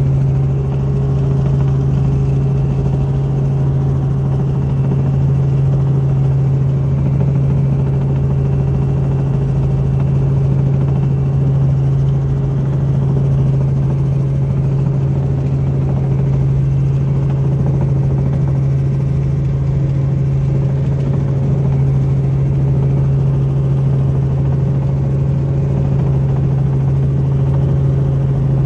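Helicopter in flight, heard as a loud, steady, unchanging drone of rotor and engine.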